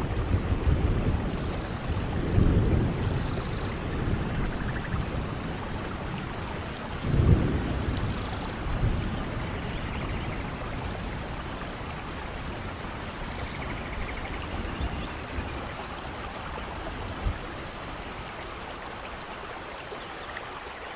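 Steady rain with rolls of thunder: low rumbles swell about two seconds in and again about seven seconds in, then die away to rain alone.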